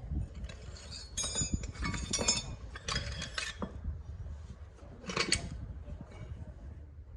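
Hard metal pieces clinking together several times, each contact ringing briefly with a high tone.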